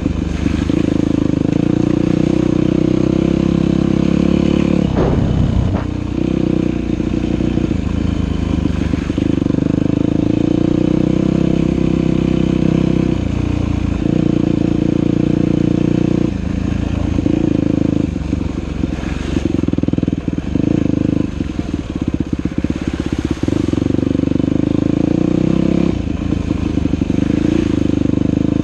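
Dirt bike engine running under changing throttle while riding a trail, with a quick rev about five seconds in and the engine note cutting in and out repeatedly in the second half as the throttle is opened and closed.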